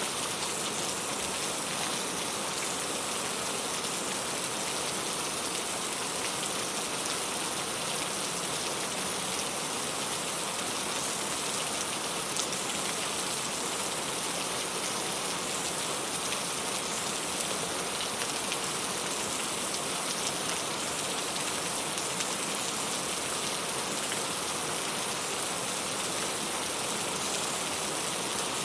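Steady rain falling, a dense even hiss with fine drop ticks on a surface.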